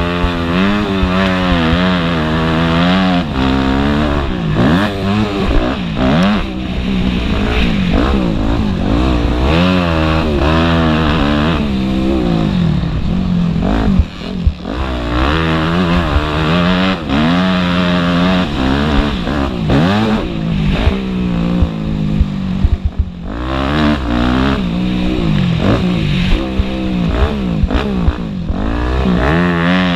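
Motocross dirt bike engines running hard, revving up and falling off again and again as they accelerate and shift, with a brief drop around halfway and again a few seconds later.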